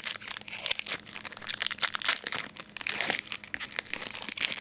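Plastic trading-card pack wrapper crinkling and tearing, a dense run of irregular crackles.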